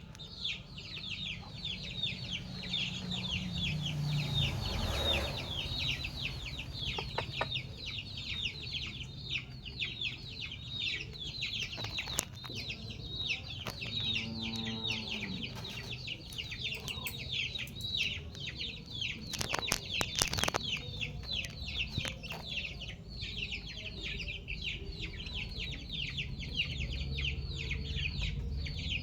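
Chickens calling: a dense, unbroken chatter of quick high-pitched chirps, with one short lower call about fourteen seconds in and a few sharp clicks.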